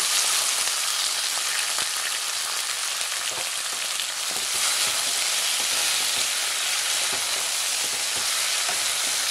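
Green peas and tomato pieces frying in hot mustard oil in a non-stick kadai, a steady sizzle, with light scrapes and taps of a wooden spatula stirring them.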